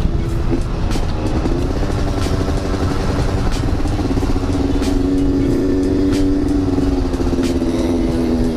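Yamaha RX-King 135 cc two-stroke single-cylinder engine running under way, its pitch climbing about a second in and then holding steady, over a constant low rumble of wind.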